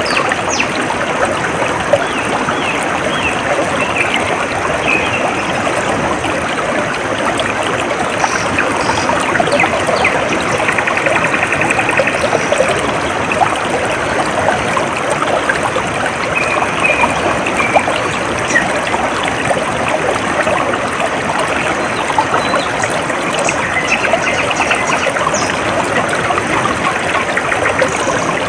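A shallow stream trickling and babbling steadily, with faint high bird chirps now and then.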